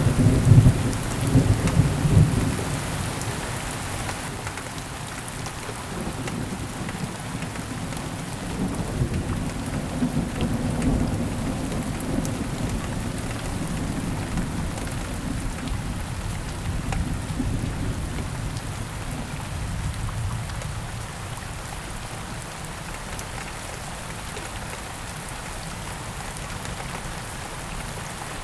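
Steady rain with thunder: a loud clap breaks right at the start, and its low rumble rolls on and fades away over the next twenty seconds or so.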